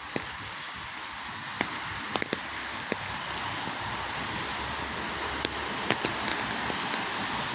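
Steady rain falling, with scattered single drops striking close by as sharp ticks. It grows gradually heavier.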